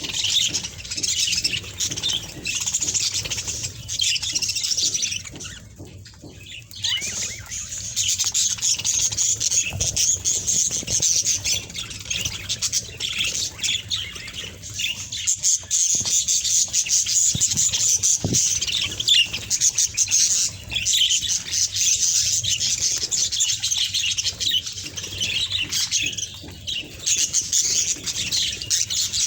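Budgerigars chattering and warbling in a steady stream of rapid chirps and squawks, dipping briefly about six seconds in.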